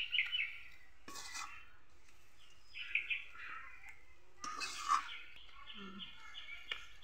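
Small birds chirping in repeated bursts, with a few short scrapes and clinks of a metal spatula against the wok and plate as the cooked paste is scooped out.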